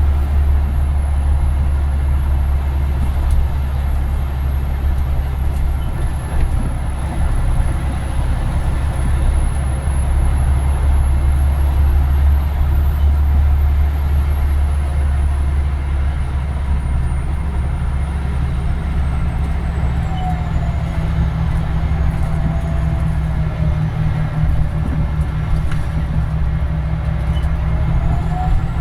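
Scania Omnidekka double-decker bus under way, heard on board: a steady low engine drone with road noise. About two-thirds of the way through, a faint whine sets in, dips, then rises near the end as the bus changes speed.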